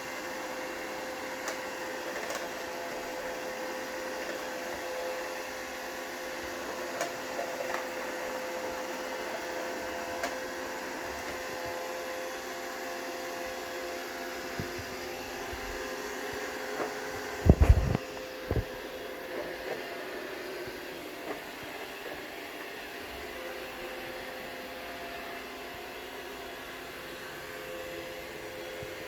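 Roomba robot vacuum running as it tries to dock, its motors giving a steady hum with a held tone. A few sharp knocks come in a quick cluster about 17 seconds in, the loudest sounds, with lighter clicks scattered around them.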